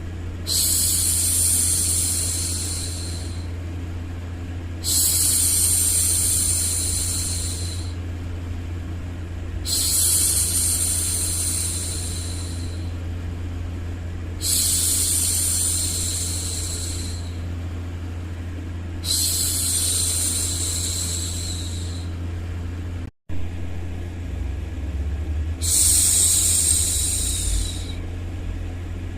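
A woman's long 'shhh' hushing, repeated six times, each about three seconds long with a short pause between, over a steady low white-noise hum. The sound drops out for an instant a little past two-thirds of the way through.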